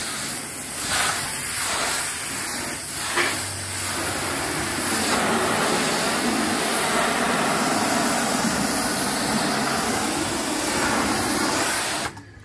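Pressure washer spraying, a loud steady hiss of high-pressure water that cuts off suddenly near the end.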